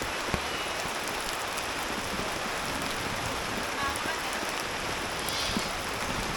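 Steady rain falling, with a few sharp drip or tap sounds on top.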